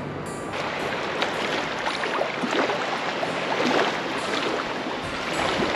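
Small Gulf surf washing onto the sand, with irregular splashes and fizzing as the water runs up the beach.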